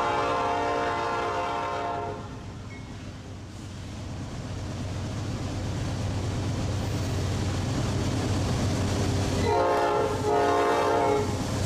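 Diesel locomotive horn sounding a long blast that ends about two seconds in, then the steady low rumble of the train running, then two more horn blasts near the end.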